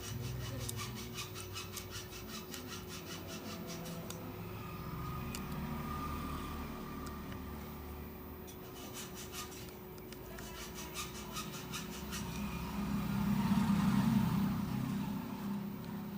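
Quick repeated scraping strokes, about eight a second, of a hand tool rubbing a phone's hard frame, in two runs with a pause between. Near the end a low rumble swells and fades.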